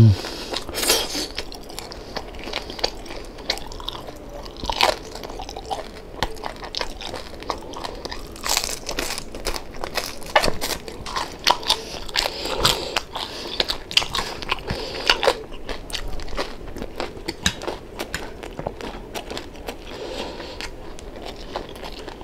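A person chewing and biting into crispy deep-fried pork knuckle (crispy pata), with many short crunches and crackles. A loud low thump comes right at the start.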